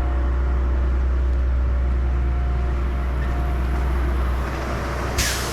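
Stone slinger truck's diesel engine idling with a steady low rumble that eases slightly near the end, followed by a short sharp hiss.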